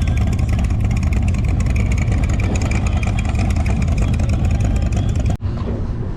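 Car engine and exhaust running loud and close, steady with a heavy low rumble. It drops abruptly to a quieter, duller engine sound near the end.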